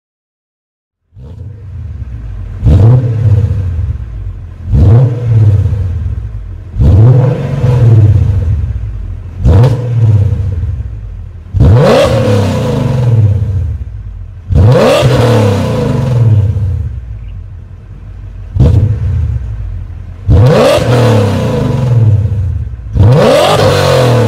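BMW M5 E39's 4.9-litre V8 through a Tubi Style exhaust, revved again and again: about nine sharp throttle blips, each rising quickly and falling away slowly. The run starts after about a second of silence.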